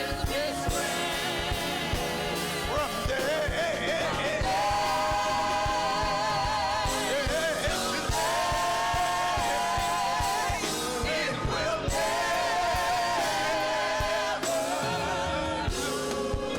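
Gospel song sung by singers over a band with a steady drum beat, the voices holding long notes with vibrato.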